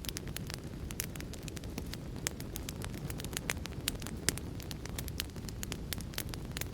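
Wood fire crackling: many sharp, irregular pops and snaps over a steady low rumble of burning.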